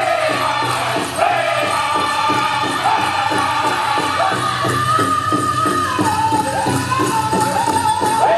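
Powwow drum group singing a chicken dance contest song: several voices in high, descending phrases over a steady, fast beat on a big powwow drum.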